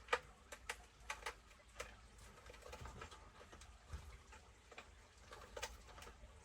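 Faint, scattered clicks and light taps of small parts being handled as thin shims are fitted into an RC truck differential, the sharpest click just after the start.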